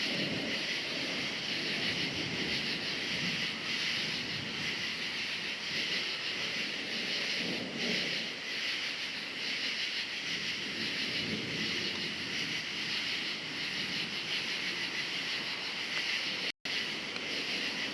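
A steady night chorus of crickets, high and finely pulsing. Underneath it a low rumble of distant thunder swells and fades every few seconds. The sound drops out completely for a split second near the end.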